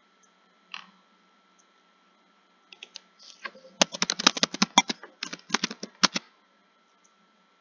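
Computer keyboard typing. A single keystroke comes about a second in and a few scattered ones near three seconds, then a fast run of keystrokes lasts about two and a half seconds, with a brief pause in the middle.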